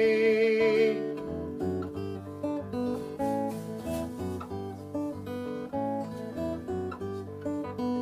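Acoustic guitar playing the closing bars of a song, picked notes one after another, after a held sung note with vibrato ends about a second in.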